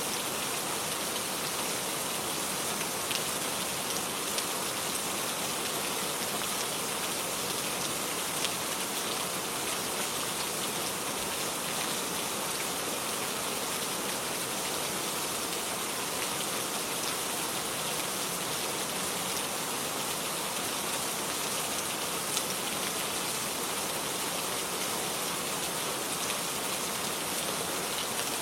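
Steady rain falling on a garden, an even hiss with occasional distinct drops.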